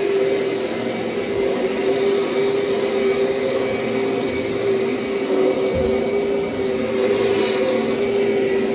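Kirby upright vacuum cleaner running steadily over plush carpet: a constant motor hum with fan rush, holding one pitch throughout.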